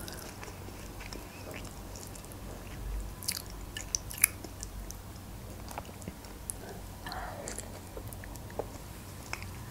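Quiet close-up chewing of a breaded chicken cutlet in tomato sauce, with scattered soft, wet mouth clicks.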